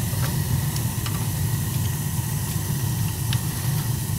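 Gas boiler burner firing: a steady low rumble of the gas flames with a thin hiss over it, and a few faint ticks.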